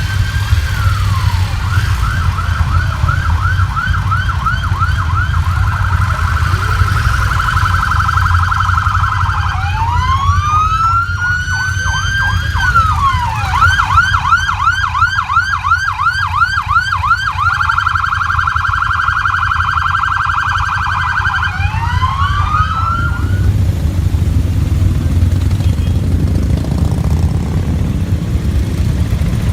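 Electronic emergency-vehicle siren cycling through a slow rising-and-falling wail, a fast yelp and a held warbling tone, over a steady low rumble of engines. The siren stops about 23 seconds in, leaving only the engine rumble.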